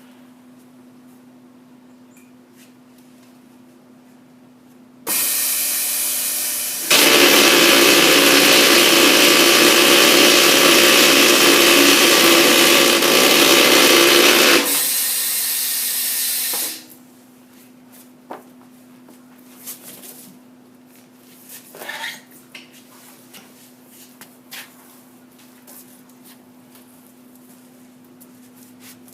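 Truck tire sidewall remover cutting the sidewall from a steel radial truck tire: a loud, harsh cutting noise starts about five seconds in, grows louder about two seconds later, eases back, and stops at about seventeen seconds. A steady low machine hum runs underneath, and scattered knocks follow the cut.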